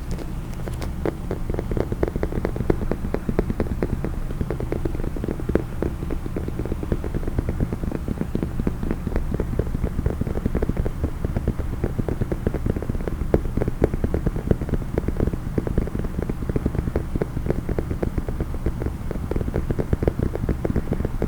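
Rapid, continuous tapping on a hard case, many quick irregular taps a second, over a low steady hum.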